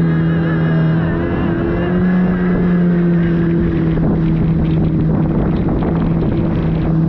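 Jet ski engine running at a steady high speed, with a constant hum and a rush of water and wind that grows heavier in the second half.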